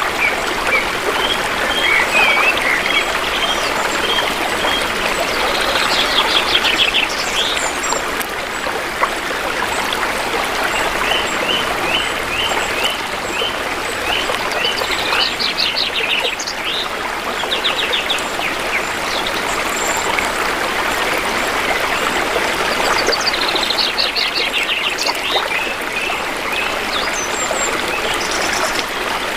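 Shallow river water flowing steadily, with forest birds calling over it: runs of short repeated chirps and several quick trills.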